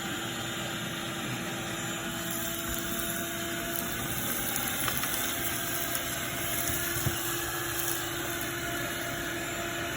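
A motor running steadily, giving a constant hum under an even hiss, with a faint tick about seven seconds in.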